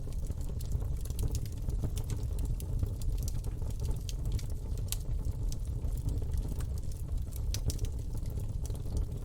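Campfire burning: a steady low rush of flames with frequent irregular sharp crackles and pops from the burning wood.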